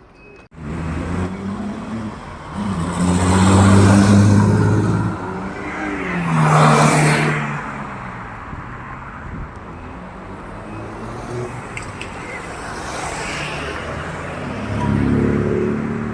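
Cars driving past with engines running. The loudest engine swells about three to five seconds in, another car rushes past around seven seconds in, and a third engine rises near the end.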